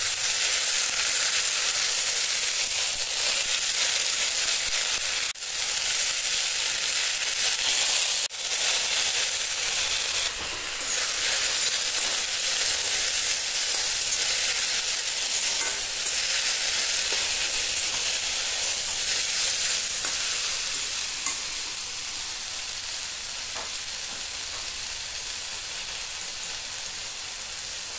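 Mosundori (fish mint, Houttuynia cordata) leaves sizzling in hot mustard oil in a steel kadai while being stirred with a metal spatula: a steady, dense frying hiss that softens a little over the last several seconds as the leaves wilt down.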